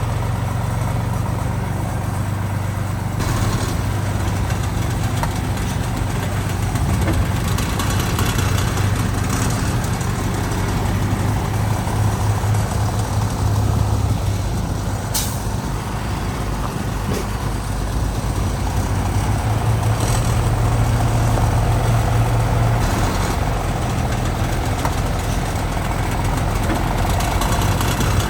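Heavy diesel earthmoving machinery running steadily with a low engine drone that swells and eases slightly, with one sharp click about halfway through.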